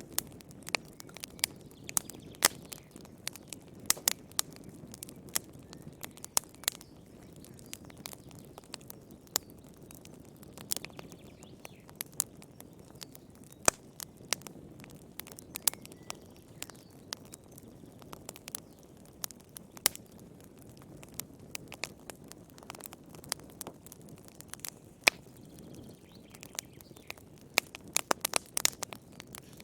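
Wood fire burning in a fireplace: irregular sharp crackles and pops over a soft low rumble of flame, with a quick run of pops near the end.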